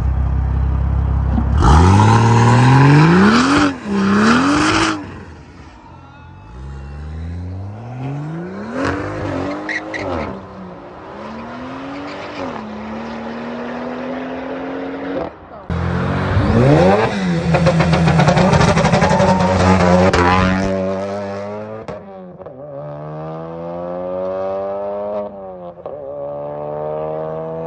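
A car engine accelerating hard through the gears several times, its pitch climbing steeply and falling back at each upshift. The loudest full-throttle pulls come about two seconds in and again just past the middle, with gentler rising pulls between.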